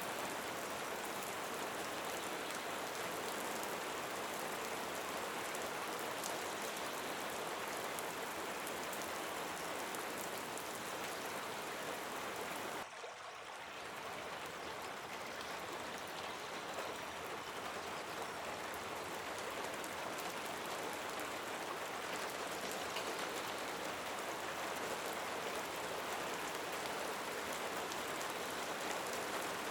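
Steady rain falling, an even hiss of many drops, which dips briefly about halfway through and comes back.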